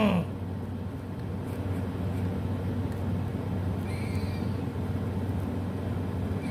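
Steady outdoor background hum and hiss, with a faint short call about four seconds in from a squirrel that keeps calling over and over.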